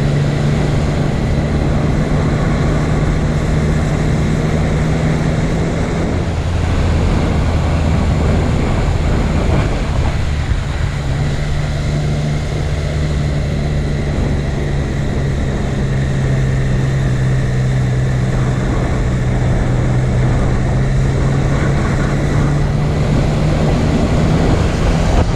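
Steady, loud mechanical drone: a low hum over a continuous rushing noise, with no breaks.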